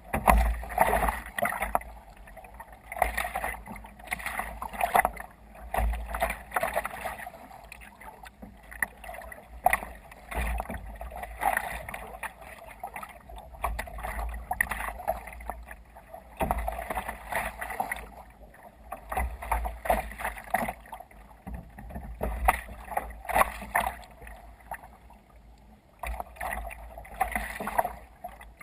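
Water sloshing and splashing against a sea kayak's hull in uneven surges every second or two as it rides through waves, with wind rumbling on the microphone.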